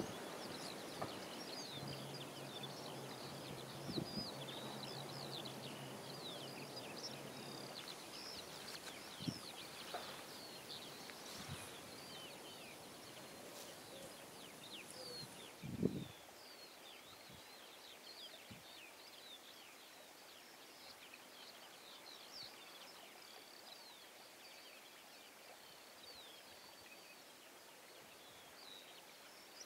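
Small birds chirping and twittering in many quick, short calls over a faint outdoor background hiss. A low thump about halfway through.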